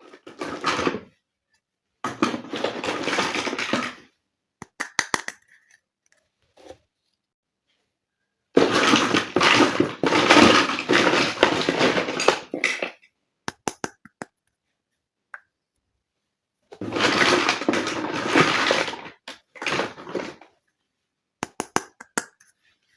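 Crinkling and rustling of plastic toy packaging in four long bursts of one to four seconds, with light clicks and taps of small plastic parts between.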